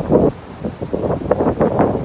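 Typhoon wind buffeting the microphone in uneven gusts, with a brief lull about half a second in.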